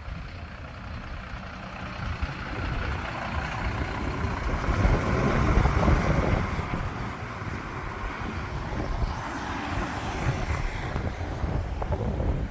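A heavy truck driving past. Its engine and tyre noise build to a peak about halfway through, then fade as it moves away.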